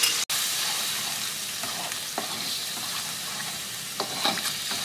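Ground chili and spice paste frying in a wok with a steady hiss, stirred with a spatula that scrapes the pan a few times, about two and four seconds in.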